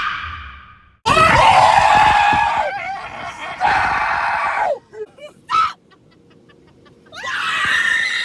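People screaming in fright: a scream fading at the start, a long loud scream from about a second in until nearly five seconds, and another scream near the end.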